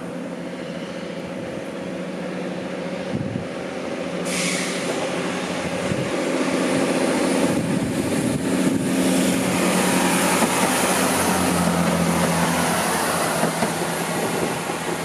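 Diesel train running past, its engine drone growing louder over the first several seconds, with a hiss of wheels on the rails coming in about four seconds in, then holding steady.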